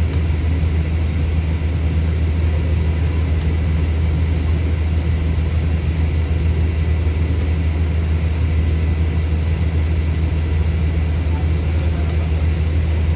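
A steady, unchanging low engine rumble, with a faint high steady tone above it.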